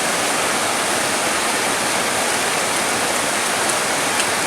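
Steady, even rain hiss that does not change over the few seconds.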